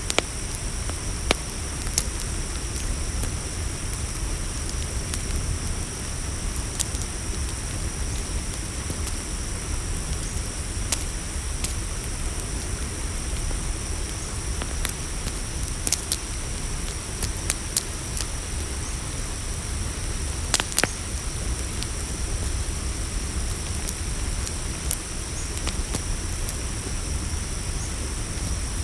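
Campfire crackling, with scattered sharp pops and snaps over a low steady rumble, under a continuous high-pitched chorus of night crickets.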